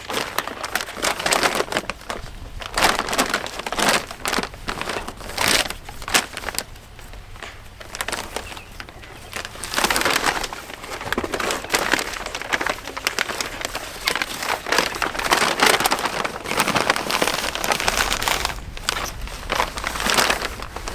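Crinkling and crackling of plastic grain sacks being handled, in irregular bursts throughout.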